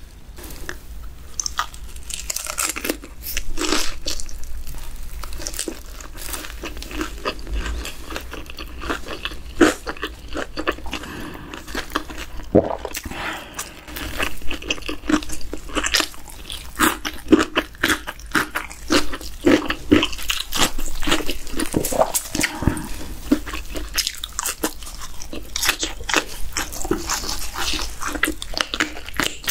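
Close-miked biting and chewing of crispy fried food: a steady run of sharp, crackling crunches throughout.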